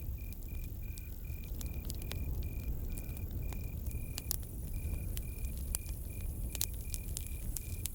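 Campfire crackling, with sharp pops scattered over a low, steady rumble of burning wood. A cricket chirps steadily in a regular pulse, nearly three chirps a second, pausing briefly partway through.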